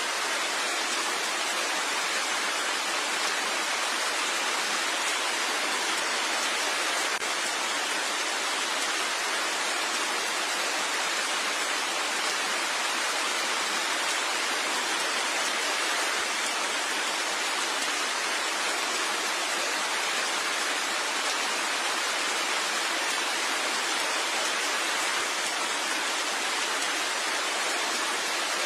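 Steady rain: an even, unbroken hiss with no separate drops standing out.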